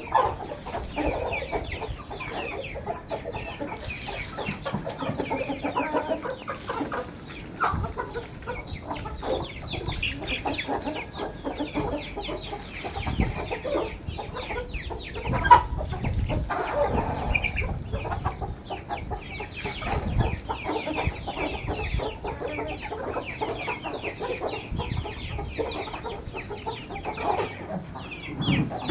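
Aseel chickens clucking continuously, with one sharp knock about halfway through.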